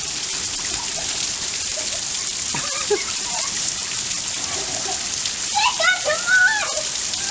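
Heavy rain falling steadily in a dense, even hiss. Voices call out a couple of times over it, most clearly near the end.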